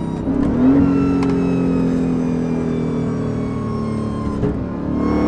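Dodge Charger's supercharged V8 running under way, a steady engine note sagging slowly in pitch. About half a second in, and again near the end, the pitch dips and then climbs.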